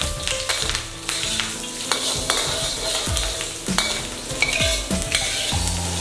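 Chunks of ginger sizzling in hot oil in a wok, stirred with a metal wok ladle that scrapes and clicks against the pan now and then.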